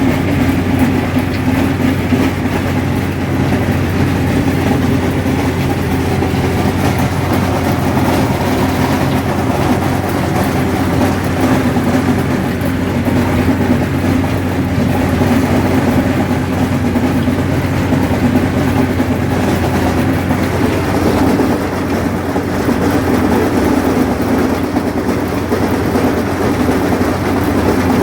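Allis-Chalmers 7000 tractor running steadily under load, pulling a sickle bar mower through hay, with the mower's cutter bar going continuously. The combination is loud, with a constant clanging and banging from the mower.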